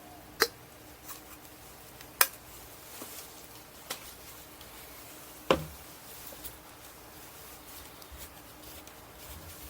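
A few sharp clicks and knocks from paint containers being handled while hardener is added to bed liner paint: three loud ones, about half a second, two seconds and five and a half seconds in, with fainter taps between.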